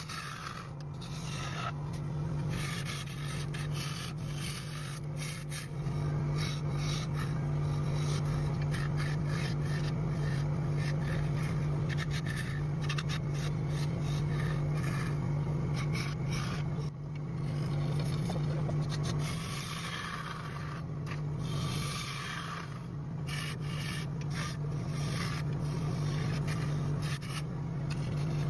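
A wood lathe running with a steady low hum while a turning tool scrapes and cuts the spinning wood, the scraping pausing briefly a few times.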